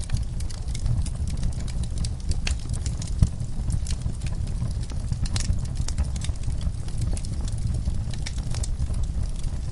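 Wood fire crackling, with scattered sharp pops and clicks over a steady low rumble, mixed with the occasional knock of horses' hooves shifting in a stall.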